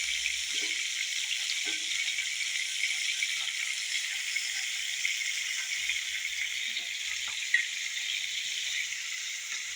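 Food frying in hot oil: a steady sizzling hiss with faint scattered crackles and one sharper pop near the end.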